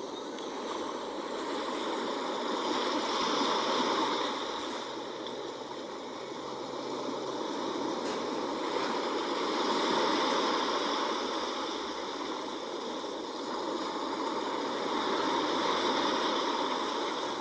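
Sea waves washing in: a steady hiss of moving water that swells and eases three times, about every six seconds.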